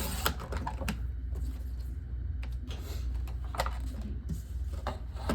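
Irregular light clicks and taps of paper and crafting tools being handled on a tabletop, over a steady low hum.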